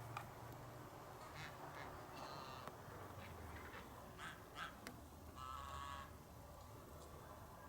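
Birds calling: several short calls with stacked overtones, the longest and loudest lasting about half a second, two-thirds of the way in, over a faint steady low hum.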